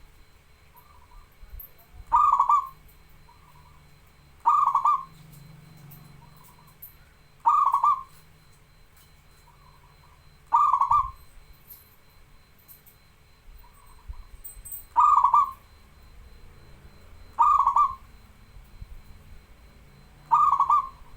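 Zebra dove (perkutut) cooing: seven loud, short coos about every three seconds, with soft notes between them.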